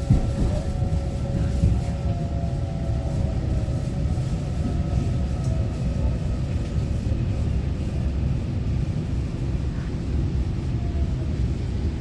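Taiwan Railway EMU900-series electric multiple unit heard from inside the carriage as it slows into a station: steady low rumble of wheels on track, with a thin electric whine from the traction motors that falls in pitch and fades within the first few seconds.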